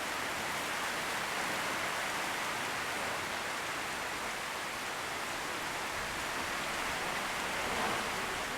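Heavy rain pouring down steadily, an even hiss of drops on surfaces.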